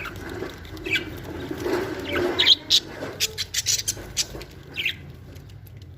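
Budgerigars chirping in short, sharp calls, busiest a few seconds in.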